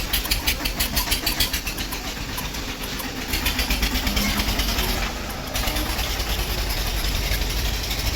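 Small petrol engine of a crop-spraying machine running with a rapid, pulsing beat that rises and falls in surges, dipping briefly about five seconds in.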